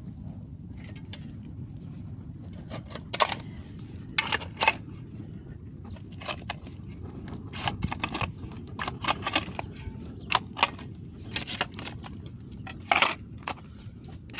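Sharp clicks and knocks, well over a dozen at uneven intervals, over a steady low rumble.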